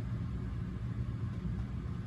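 Steady low background hum with a faint even hiss, with no distinct event.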